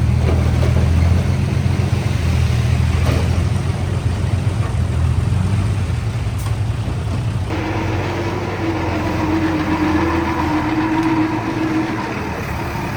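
Heavy diesel engine of earthmoving equipment running steadily. About seven and a half seconds in, the sound changes abruptly: the low rumble eases and a steady higher whine comes in over it.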